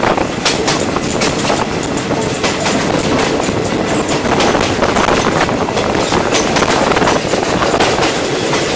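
Passenger train running along the track, heard from an open carriage window: a steady loud rumble of wheels on rails, with constant rattling clicks.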